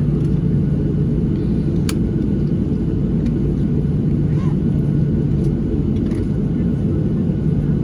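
Steady low cabin rumble of a Boeing 737-700 on the ground before takeoff, from its idling CFM56-7B engines and airframe. A single sharp click comes about two seconds in.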